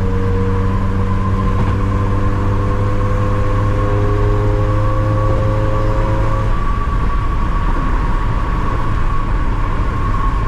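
Manual rear-wheel-drive car cruising, heard from inside the cabin: a steady engine note over constant road and tyre rumble. About six and a half seconds in the engine note drops away, leaving the road rumble and a thin steady whine.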